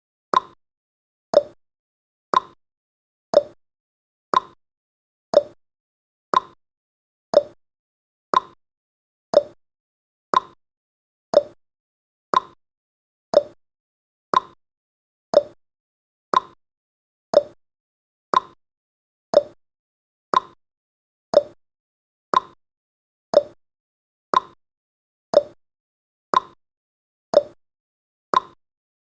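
Countdown timer sound effect: a short tick once every second, each one dying away quickly, in a perfectly even rhythm.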